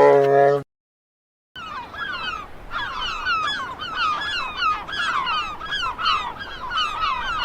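A flock of waterfowl calling, many overlapping honking calls repeating several times a second, starting about a second and a half in. Before them the tail of a deep roaring animal call cuts off suddenly, followed by a moment of silence.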